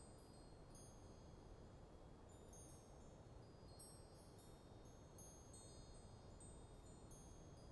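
Wind chimes tinkling faintly in a light breeze: many short, high ringing notes struck irregularly and overlapping, over a low, steady wind hush.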